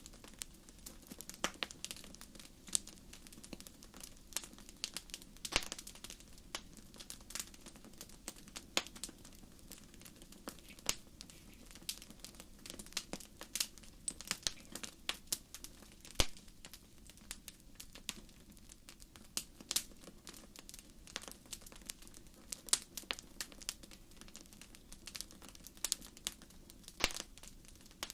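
Wood fire crackling: irregular sharp pops and snaps over a low, steady noise of burning, with one louder pop about halfway through.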